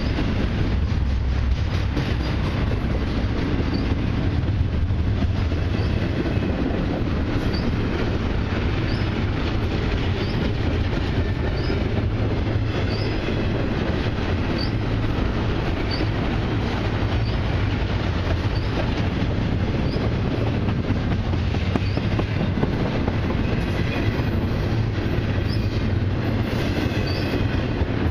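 Freight cars of a long intermodal train rolling past at speed: a steady rumble of steel wheels on rail, with short high-pitched wheel squeaks recurring about once a second.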